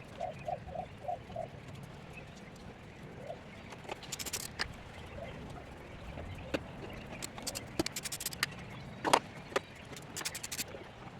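Scattered clicks and knocks of metal tools and engine parts being handled, with a sharper knock about nine seconds in. Near the start there is a brief run of six quick chirp-like squeaks.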